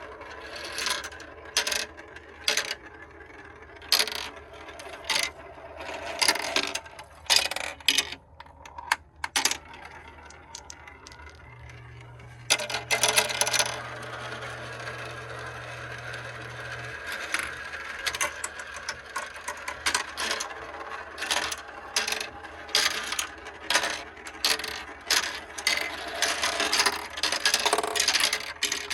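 Glass marbles rolling and clattering down plastic Kumikumi Slope marble-run track, with many sharp clicks and knocks as they drop and hit the pieces. From about halfway it becomes a steady rolling rattle.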